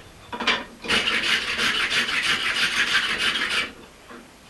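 Rapid scraping strokes on steel, as on the forged axe head: a brief scrape, then a steady run of about three seconds.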